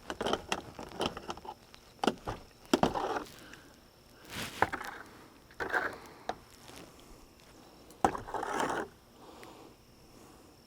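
Irregular knocks and clicks, with several short scrapes of about half a second each, from hands and objects being handled.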